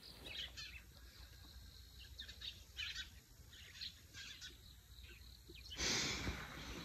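Faint, scattered chirps of small birds singing at dawn. Near the end a louder rustling noise comes in over them.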